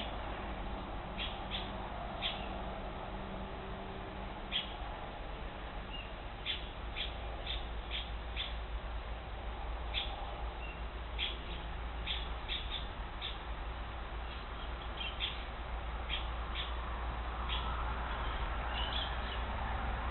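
Wild bird calling with short, sharp chip notes repeated irregularly, about one or two a second, over a steady low rumble.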